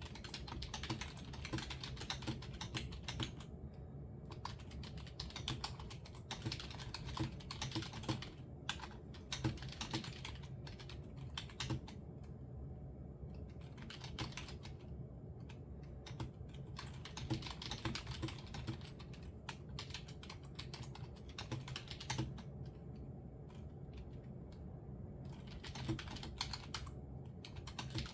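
Typing on a computer keyboard: quick runs of key clicks a few seconds long, broken by short pauses, over a steady low hum.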